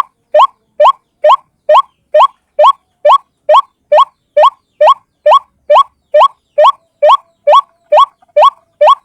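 White-breasted waterhen (ruak-ruak) call repeated as a lure: a loud, unbroken series of short upward-sweeping notes, a little over two a second.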